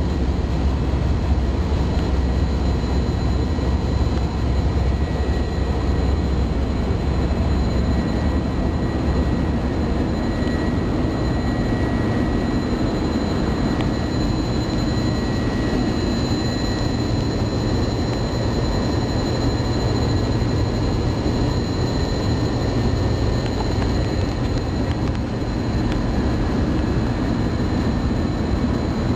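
Steady cabin noise of an airliner in flight: the continuous roar of engines and airflow, with a few faint constant high-pitched whines over it.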